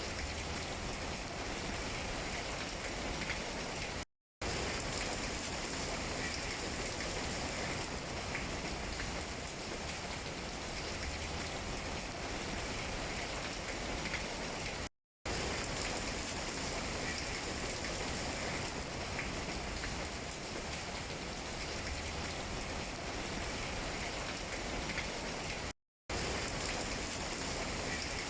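Steady rain pattering on tree leaves, an even hiss with small scattered drip taps. It cuts to silence for a split second three times, about every eleven seconds.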